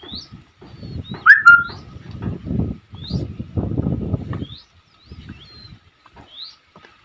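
A bird repeats a short rising chirp about every second and a half, with a louder squeaky call about a second in. Under it come dull clunks and rustles as mud bricks are picked up, passed and stacked by hand.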